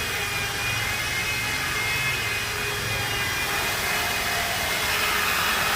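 Electric polishing machine running steadily while buffing car paint with compound, a motor whine over a steady rushing noise. Near the end the whine drops lower in pitch and gets slightly louder.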